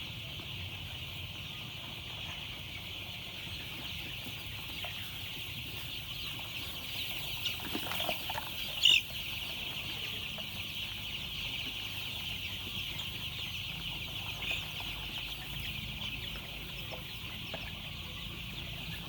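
A flock of young chicks peeping continuously, many high calls overlapping, with one louder, sharper peep about nine seconds in.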